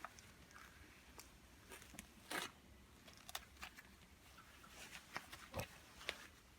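Quiet handling noise: a few faint, scattered clicks and knocks, irregular and short, over low room tone.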